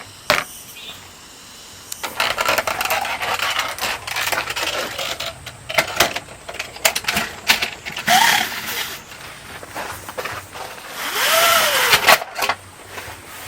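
Clattering and rustling of objects being handled, with many sharp clicks and two short squeaks, one near the middle and one near the end.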